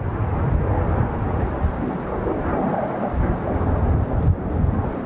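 Strong, gusting wind buffeting the microphone: a constantly fluttering low rumble over a steady rushing noise.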